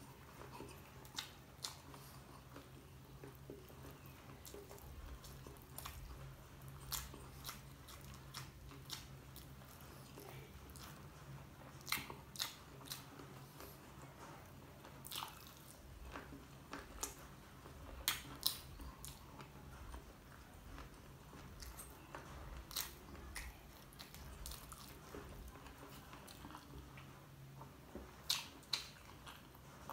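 A person chewing and biting into dynamite shrimp, battered fried shrimp in a creamy spicy sauce, with scattered sharp crunches and wet mouth clicks at an irregular pace. A low steady hum runs underneath.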